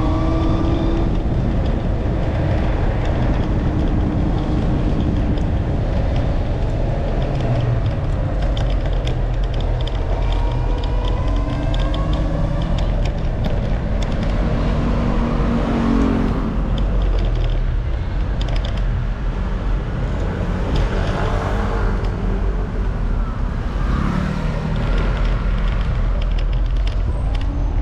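Wind rushing over the microphone of a rider moving through traffic, a steady low rumble. Vehicle engines rise and fall in pitch over it as they speed up and pass.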